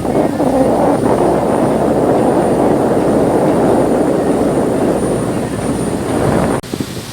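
Motorboat running at speed, heard from aboard: a loud, steady rush of engine, wind and water. Near the end it breaks off suddenly into a quieter wash of wind and waves.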